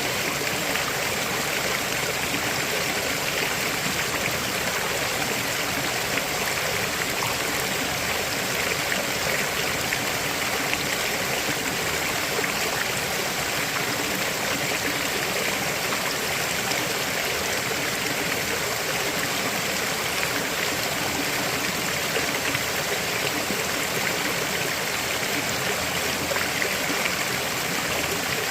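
River flowing, a steady rush of water that does not change.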